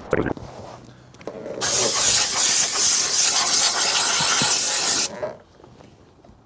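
Steam cleaner with a wide scrubber tip blasting a steady hiss of steam for about three and a half seconds, then shutting off.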